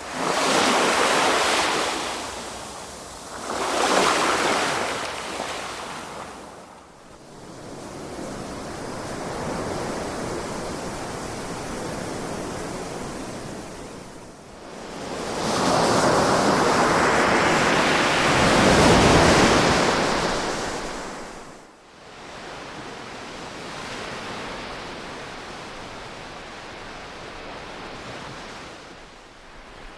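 Ocean waves breaking on a shore, each a rushing swell of surf that fades back: two short surges in the first five seconds, a long heavy one in the middle, and softer wash in between.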